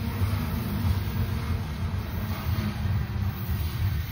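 CSX freight train's hopper cars rolling away down the track: a steady low rumble of wheels on rail.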